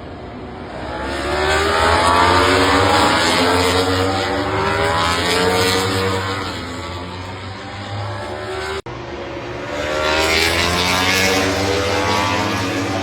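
MotoGP racing motorcycle engines at high revs, the pitch climbing and dropping repeatedly as the bikes accelerate and shift through the gears. The sound breaks off abruptly for an instant about nine seconds in, then the revving resumes.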